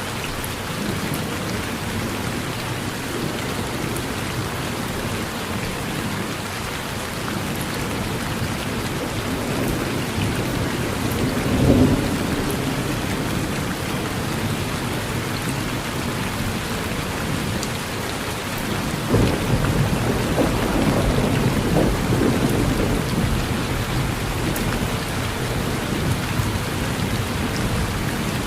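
Steady rain falling on a porch, with a short, loud clap of thunder a little before the middle and a longer rolling rumble of thunder later on.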